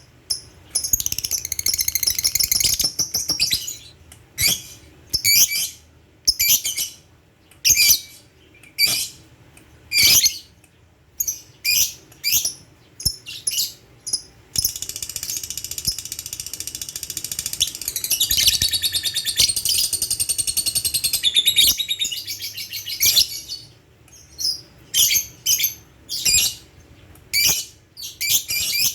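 Lovebird calling in short, sharp, high chirps about once a second. About halfway through it breaks into one long continuous chattering trill, the 'ngekek' song, lasting around eight seconds, then goes back to single chirps.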